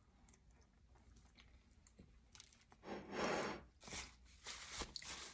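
A person eating close to the microphone: faint chewing and small clicks of a plastic fork and takeout container. About three seconds in there is a louder breathy sound, like an exhale or sigh.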